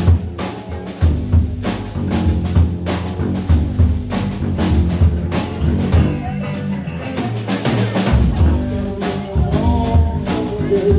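Live band music with a drum kit keeping a steady beat over bass and other instruments, without singing.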